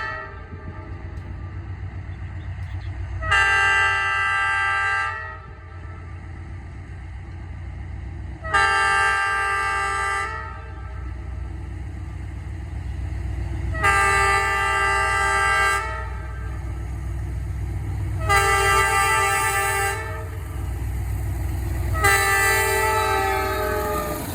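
Train horn sounding five long blasts, each about two seconds, a few seconds apart, over the steady low rumble of the moving train.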